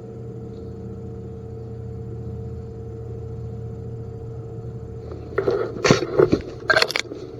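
A steady low hum, then about five seconds in a run of loud rustling and crunching broken by sharp clicks.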